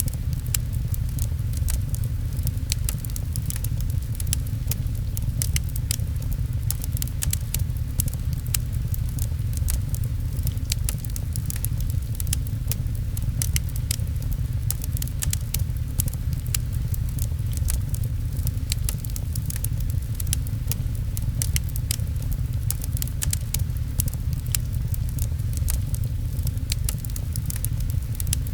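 Fireplace crackling, with many sharp pops and clicks scattered throughout, over a steady low rumble.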